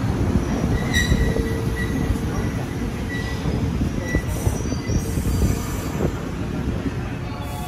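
Izu Kyuko 2100 series Resort 21 electric train rolling slowly along the platform as it pulls in to stop: a low rumble of wheels on rail with short high squeals coming and going, the sound easing off toward the end as the train slows.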